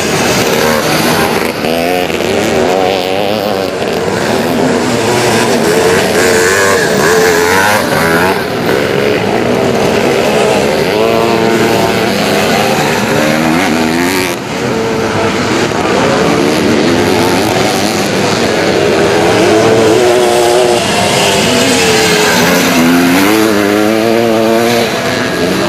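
Classic twin-shock motocross motorcycles racing on the circuit, their engines revving up and down as the bikes accelerate and back off. At times several bikes are heard at once.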